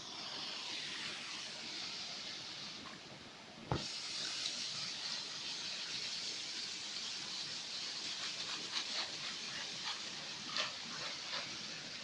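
Steady rush of flowing river water, swollen after rain, with a single sharp knock nearly four seconds in and scattered light clicks in the later part.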